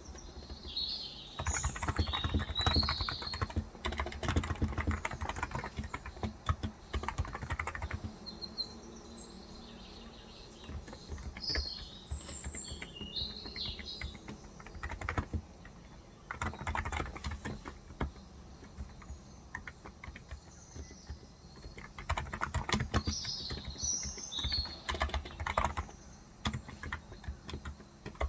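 Typing on a Cox Endeavour electro-capacitive (Topre-style) tenkeyless keyboard with 35 g switches, in runs of quick keystrokes broken by pauses. Birds chirp several times in the background.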